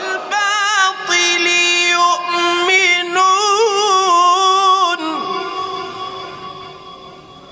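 A single voice chanting Quranic recitation (tajwid) in one long melismatic phrase: held notes that waver and turn in pitch. It breaks off about five seconds in and dies away in a long reverberant tail.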